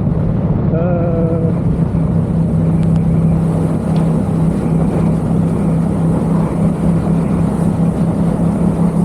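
Yamaha XSR700's parallel-twin engine through a Mivv aftermarket exhaust, running steadily at a constant cruise under wind rush.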